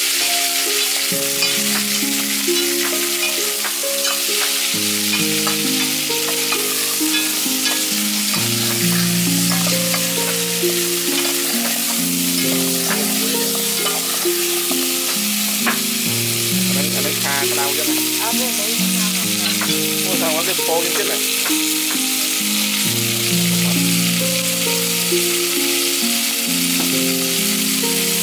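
Chicken pieces sizzling as they fry in an aluminium pot on a portable gas burner, stirred with a metal spoon that clicks now and then against the pot. Background music of long held low notes runs underneath.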